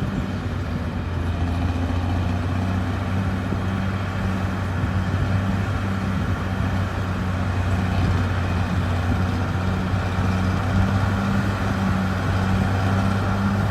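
Diesel engine of heavy earthmoving equipment running steadily, a low even hum that holds the same pitch throughout.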